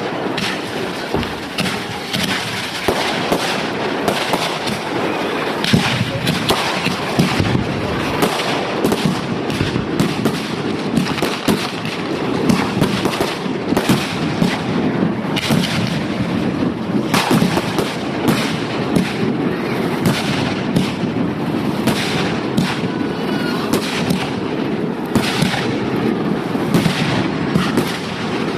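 Display fireworks going off in quick succession: a dense run of sharp, irregular bangs, several a second, over a continuous crackle, with no let-up.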